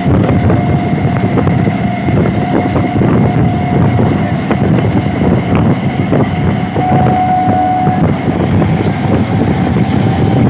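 Moving local train: a steady rumble of wheels running on the rails, with many small clicks. A thin steady tone rides over it and grows louder for about a second near the middle.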